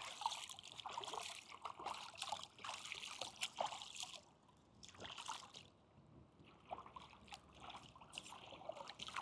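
Faint, irregular light splashing and trickling of lake water as a toy poodle puppy paddles, easing off about four seconds in and picking up again near the end.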